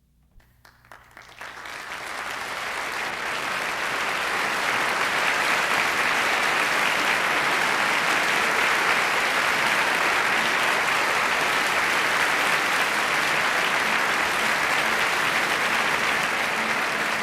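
Concert hall audience applauding after an orchestral performance. The clapping starts a few scattered hands at a time and swells over the first few seconds into full, steady applause.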